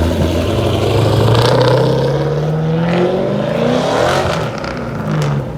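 A car engine accelerating. Its pitch climbs steadily for about three seconds, then drops and climbs again briefly near the end.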